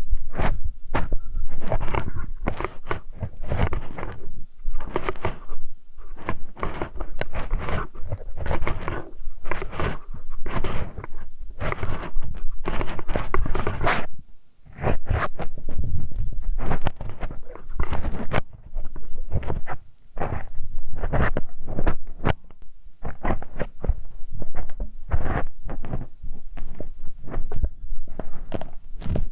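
Metal hex key (Allen wrench) scraping, rubbing and twisting in a binaural ear microphone, heard very close: a steady run of scratchy strokes one after another, with two short breaks, about halfway and about two-thirds of the way through.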